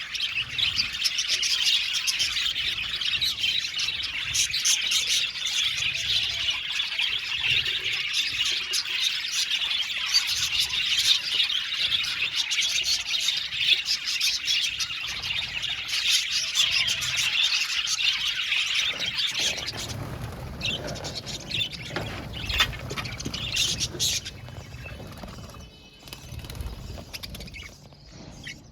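A colony of budgerigars chirping and warbling together in a dense, continuous chatter. After about twenty seconds it thins to scattered chirps and grows fainter near the end.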